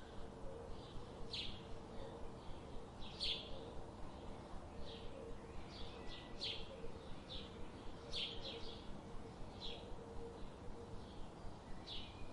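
Forest ambience: birds giving short, high chirps every second or two over a steady low background hiss.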